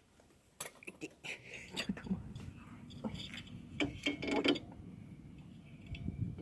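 Metal clicks and clinks of hand tools and engine parts being handled during engine assembly, a quick run of sharp ticks through the first four seconds or so, over a low rumbling handling noise.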